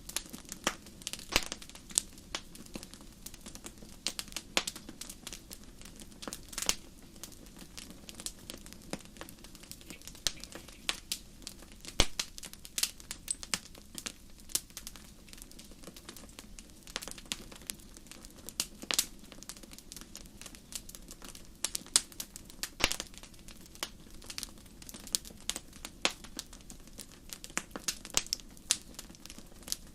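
Wood fire crackling: irregular sharp pops and snaps, a few much louder than the rest, over a faint steady low rush.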